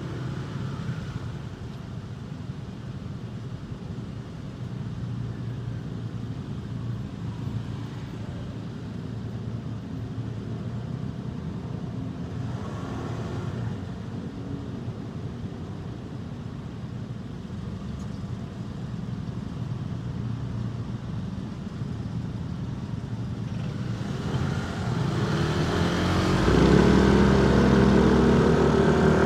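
Motorcycle riding in city traffic: a low engine and road noise with passing traffic. In the last few seconds an engine grows louder and holds a loud, steady hum close by.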